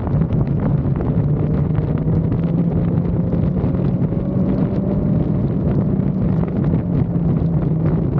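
Motorcycle engine running at a steady cruise under heavy wind noise on the microphone, with a faint tone slowly rising in pitch over the first few seconds.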